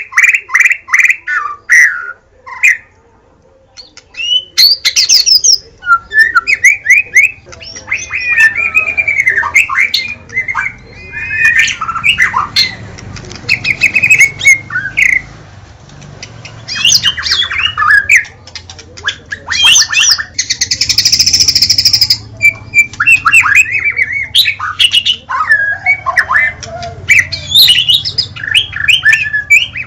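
White-rumped shama (murai batu) singing loud, varied phrases of quick gliding whistles and chattering notes, broken by short pauses. About twenty seconds in comes a harsh, noisy burst lasting about two seconds.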